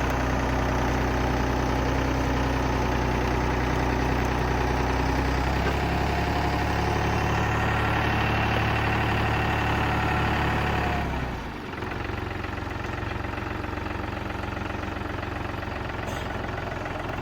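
Tractor engine running steadily as it pushes the brush pile in with its pallet forks. About eleven seconds in, the engine note drops and it runs quieter.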